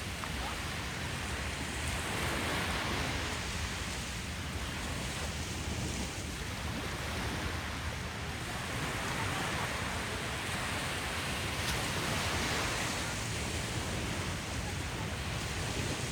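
Ocean surf: waves washing in as a steady rushing noise that swells and eases every few seconds.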